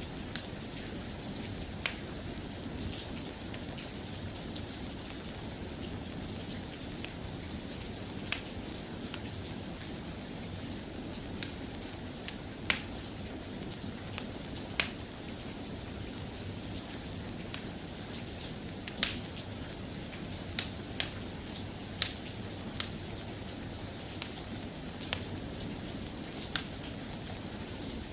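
Steady, soft rain ambience with over a dozen short, sharp pops or clicks scattered through it, more of them in the second half.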